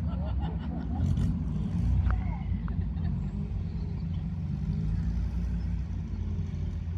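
Car engine running at low speed as a car drives slowly past, a steady low rumble that swells about one to two seconds in.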